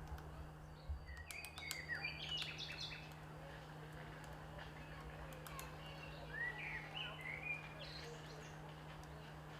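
A bird chirping in two spells of short calls, about a second in and again around six seconds, with a few sharp clicks mixed in, over a steady low hum.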